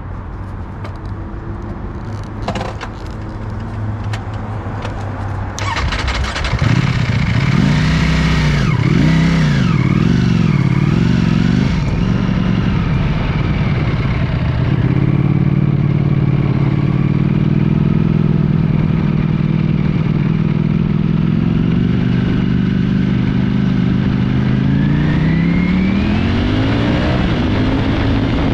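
Ducati V4 motorcycle engine. A low steady rumble with a few clicks comes first. About six seconds in, the engine gets louder and is revved up and down several times, then pulls with its pitch rising steadily, climbing quickly near the end before dropping.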